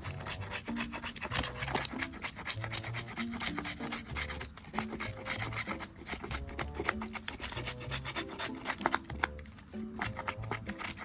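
Wood campfire crackling and popping in dense, irregular snaps, over background music with a steady low bass line and simple melody notes.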